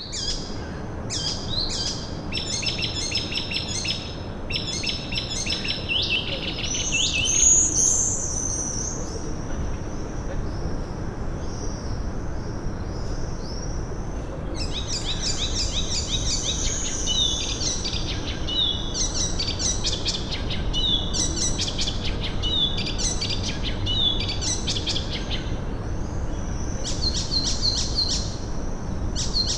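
Songbirds chirping and calling in runs of rapid, high-pitched repeated notes and trills. The loudest burst comes about seven and a half seconds in, and it goes quieter for a few seconds after that. A steady low background hiss lies under it all.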